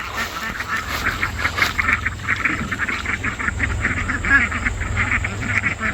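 A flock of domestic ducks quacking continuously, many short calls overlapping rapidly, over a low steady rumble.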